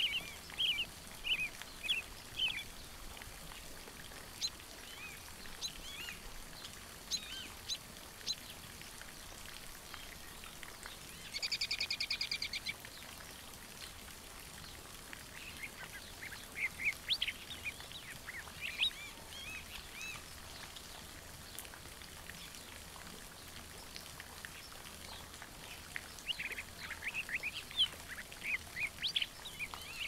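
Small birds calling in scattered clusters of short high chirps and squeaks, with one rapid buzzy rattle lasting about a second and a half near the middle.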